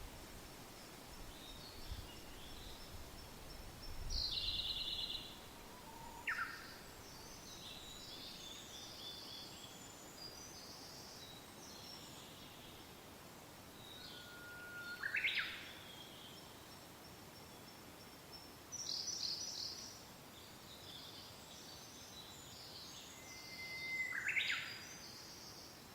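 Several songbirds singing and calling over a steady hiss of soft wind. The loudest are two calls about a third of the way in and near the end that hold a short whistle and then sweep sharply upward; a few low wind thumps come in the first seconds.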